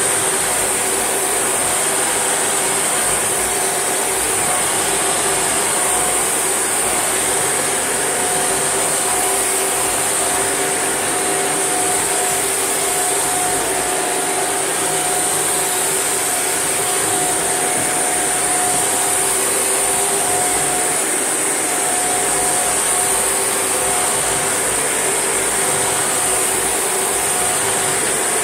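Shark NV801UK upright vacuum cleaner running steadily: an even motor hum with a strong high hiss.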